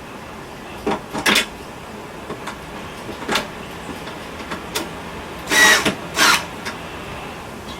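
Irregular sharp knocks and clacks, a few single ones and a louder pair about five and a half to six and a half seconds in, over a steady hiss, from handling work while a window air conditioner is being installed.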